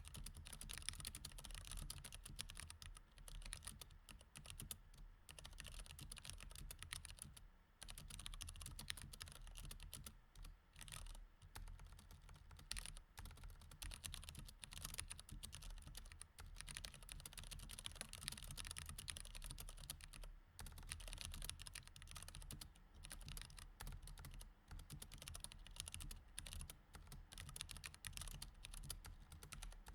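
Quiet, continuous typing on a mechanical keyboard with Cherry MX Red switches: a dense, uneven patter of key clicks with a few brief pauses, over a steady low hum.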